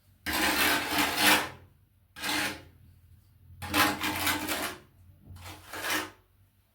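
Trowel scraping tile adhesive across a tile in four strokes, the first and third longest.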